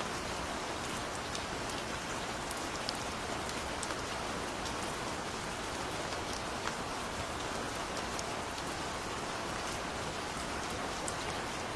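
Gentle rain falling steadily: an even hiss with scattered sharp ticks of single drops.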